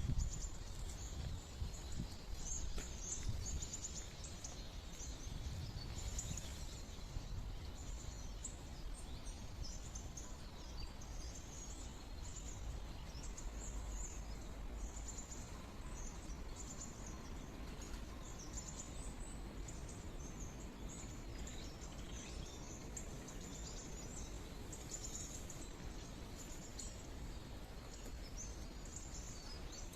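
Small birds chirping and twittering many times over a steady murmur of flowing water. A low rumble is louder in the first few seconds.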